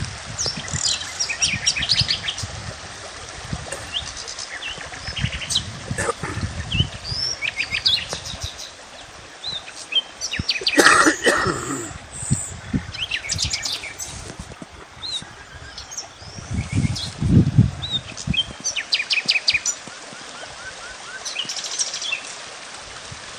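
Wild birds singing outdoors: many short chirps and quick trills, with one louder, fuller call about eleven seconds in. Low rumbles come and go underneath.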